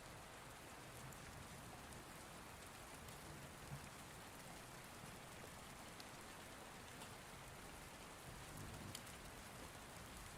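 Faint, steady rain ambience: rain falling on a surface, with a few light drop ticks.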